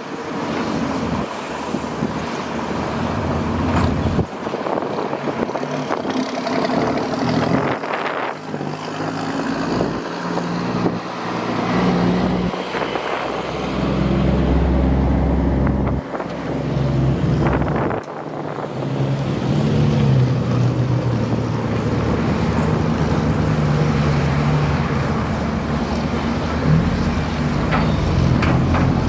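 Diesel engine of a heavy excavator or bulldozer running under load, its note rising and falling as the machine works, with occasional knocks.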